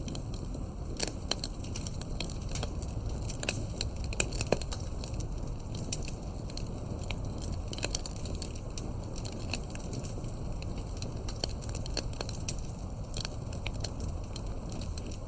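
Wood campfire crackling: irregular pops and snaps, several a second, some sharper than others, over a steady low rumble.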